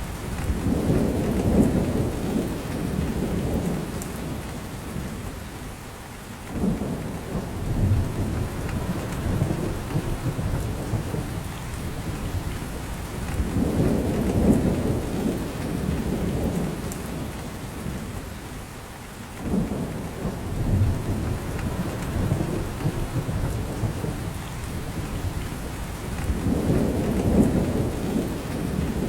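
Steady rain falling in a spruce forest, with drops falling from the branches. Under it, a low rumble swells and fades about every six or seven seconds.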